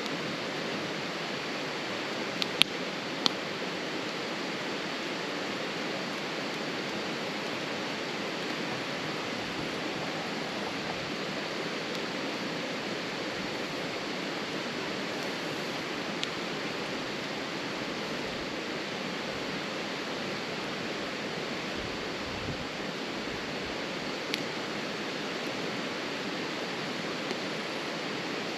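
Wood campfire burning in a small steel fire pit, with a few sharp pops of wood: two close together about two and a half seconds in, one more around three seconds, and fainter ones later. A steady rushing noise runs underneath throughout.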